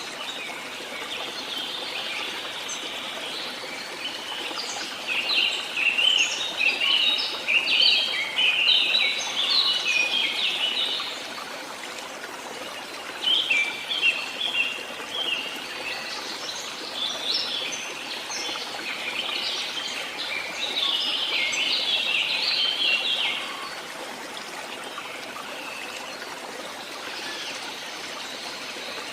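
Birds singing in quick, chirping phrases in several stretches, loudest about a third of the way in, over a steady rush of running stream water.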